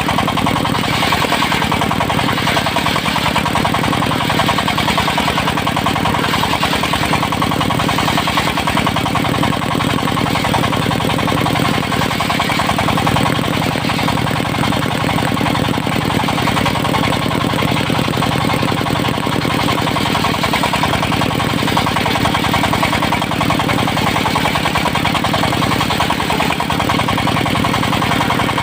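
Engine of a portable circular sawmill running steadily, with an even, rapid firing pulse.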